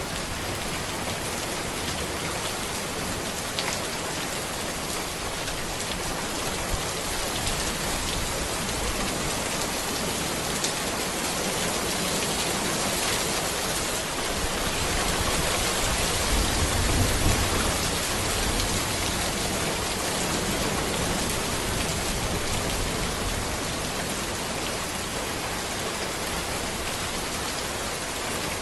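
Steady rain falling on a road, an even hiss with scattered drop patter. About halfway through, a low rumble swells and fades.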